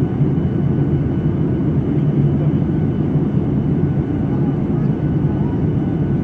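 Airliner cabin noise in flight: the steady rush of the jet engines and airflow heard from inside the cabin, with a low hum.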